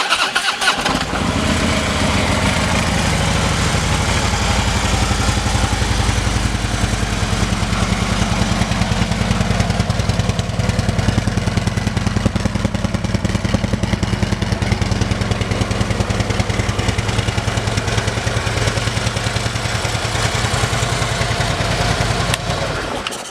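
A 2014 Harley-Davidson Electra Glide Ultra Limited's Twin Cam 103 V-twin, breathing through an aftermarket Vance & Hines exhaust, starts up about a second in and idles steadily. It shuts off just before the end.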